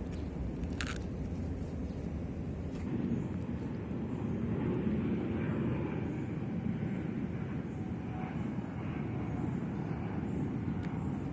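A distant engine drone over a steady low rumble, swelling and fading again in the middle. A sharp click sounds about a second in.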